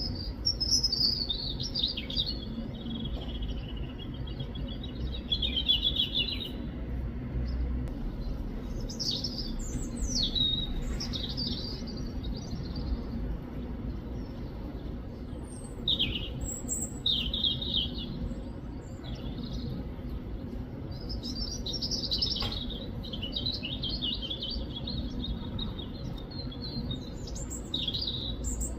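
European robin singing: phrases of high, thin warbling notes, separated by pauses of a few seconds, over a low background rumble.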